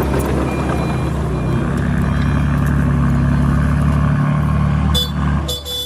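Heavy diesel engine of a truck or bulldozer running steadily, its note settling into an even hum about a second and a half in. Near the end a short high beep sounds twice.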